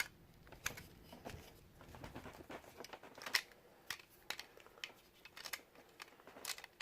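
Hard plastic parts of a Transformers action figure clicking and knocking as a tiny Titan Master figure is pushed into the jet's cockpit; faint irregular clicks, a couple of them louder.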